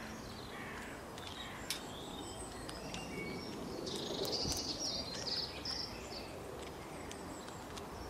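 Small birds chirping and calling over faint outdoor ambience, with a run of quick high chirps about four to five and a half seconds in, and a single sharp click a little before two seconds in.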